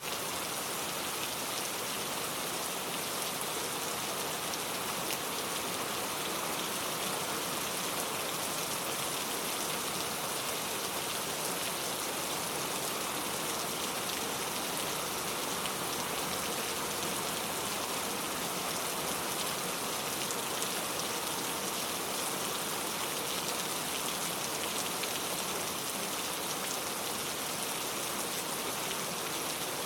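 Rain falling steadily, a dense even patter of drops that does not let up.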